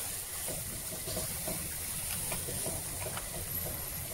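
Chopped vegetables and tomato sizzling in oil in a nonstick wok, a steady hiss, while a wooden spatula stirs them with light scrapes and taps against the pan.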